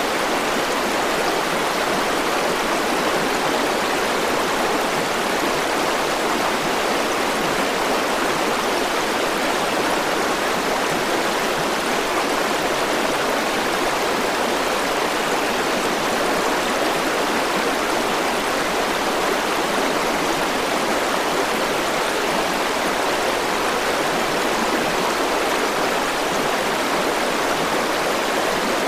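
River water flowing steadily in a constant rushing.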